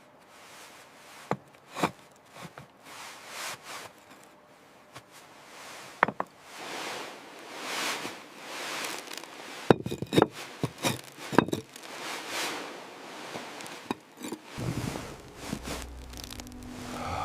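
Rocks being handled and set in place while stacking a stone wall: scattered sharp knocks of stone on stone, a quick cluster of them past the middle, with scraping and rustling in between.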